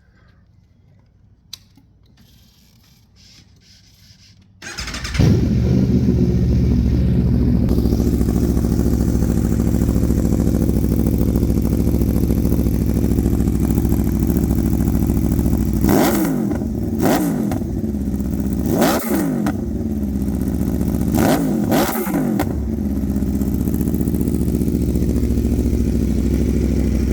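Aprilia RSV4 Factory V4 engine through a Werkes shorty aftermarket exhaust: it starts about five seconds in and settles into a steady idle. In the middle it is blipped in five quick revs, then idles again.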